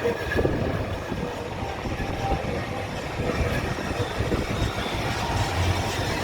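A tram running on its rails, a steady rumble.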